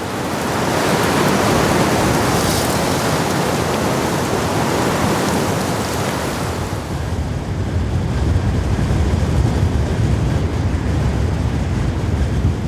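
Blizzard wind blowing as a steady rush of noise, turning into a deeper rumble of wind buffeting the microphone about seven seconds in.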